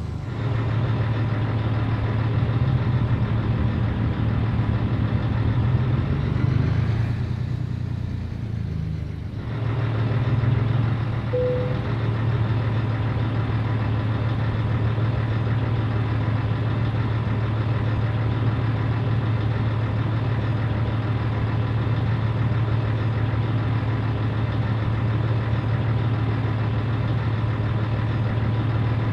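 Scania 113 truck's six-cylinder diesel engine running, easing off about eight to nine seconds in and then idling steadily. A brief beep sounds once, about eleven seconds in.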